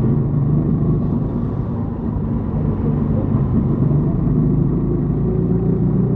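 Yamaha XTZ 150 Crosser S single-cylinder four-stroke engine running steadily under way, with a low rumble.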